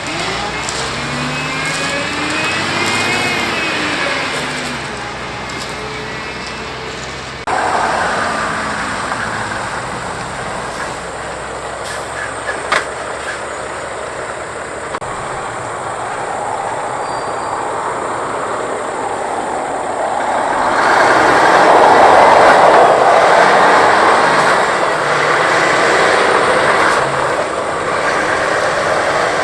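Mack trucks driving past on the road. The first truck's engine note rises and then falls in pitch as it passes. After an abrupt cut, another truck's engine and tyre noise builds to its loudest about two-thirds of the way through, then eases off.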